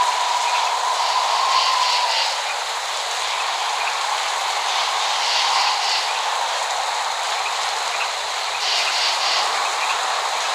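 Steady rain falling, a constant hiss with no thunder, and a faint steady tone that fades out about two seconds in.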